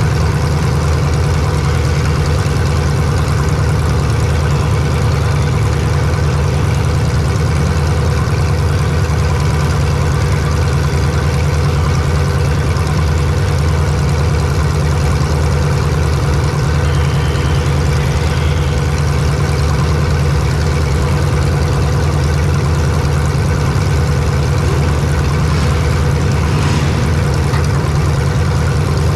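Race vehicle's engine running steadily, heard close from an onboard camera, with no clear change in pitch.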